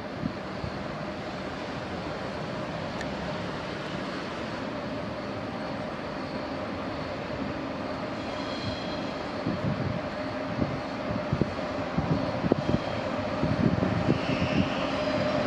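Train at a station platform: a steady mechanical hum with a held tone, growing louder in the second half with low irregular knocks.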